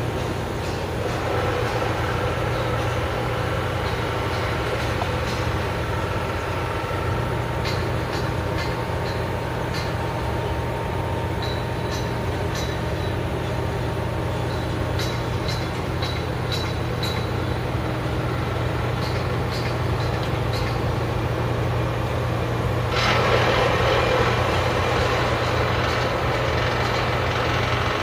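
A heavy engine running steadily at the tree-cutting work site. A series of faint high ticks comes through in the middle, and a louder, even rushing noise joins abruptly near the end.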